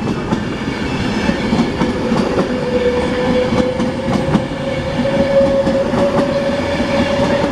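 Class 390 Pendolino electric train pulling out and gathering speed. Its traction motors give a steady whine that rises slowly in pitch over a rumble, with irregular clicks as the wheels cross rail joints.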